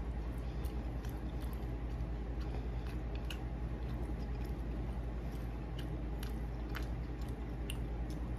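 A person biting into and chewing a slice of homemade pizza close to the microphone: wet mouth sounds with many small scattered clicks. A steady low hum runs underneath.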